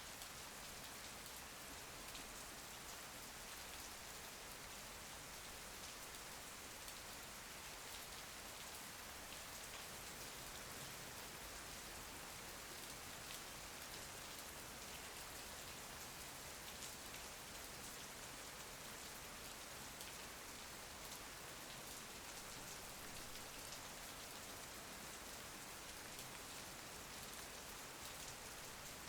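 Steady, faint rain, a constant hiss of falling rain with many fine drop ticks and no thunder.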